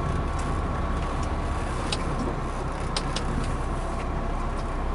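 Truck engine running at low speed while the lorry manoeuvres in a yard, heard inside the cab as a steady low rumble with a few faint clicks.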